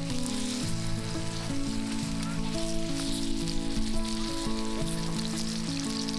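Background music with held, slowly changing notes over a steady crackling sizzle, like food frying in a pan.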